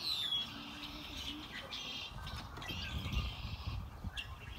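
Small songbirds chirping and calling, starting with a high whistled note that slides down. A low rumble rises under them about halfway through.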